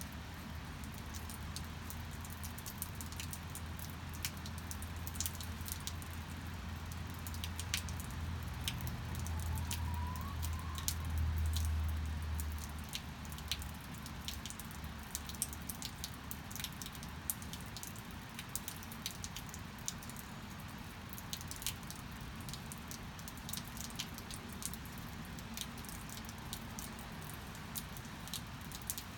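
Steady rain with many sharp drips and drop impacts. A low hum sits under the rain for the first half and fades out a little before halfway.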